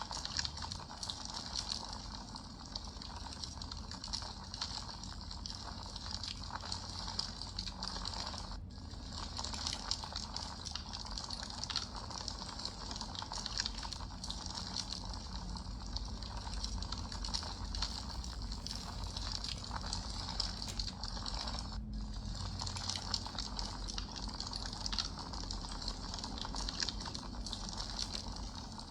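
Campfire burning, crackling steadily with many small sharp snaps over a soft hiss of flame. It drops out for an instant twice.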